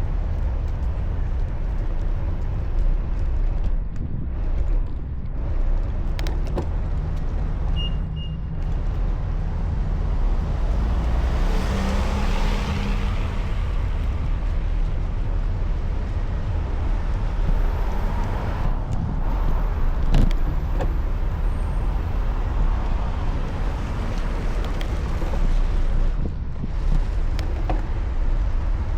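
Road traffic heard while cycling: a steady low rumble with car noise, and one vehicle passing about twelve seconds in, swelling and then fading.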